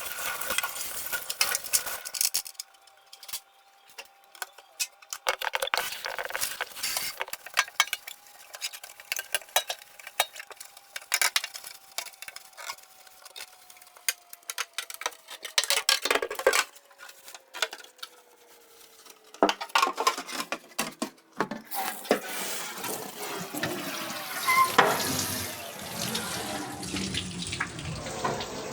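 Dishes and containers clattering and clinking as they are handled. About three quarters of the way through, a tap starts running into a sink and keeps running.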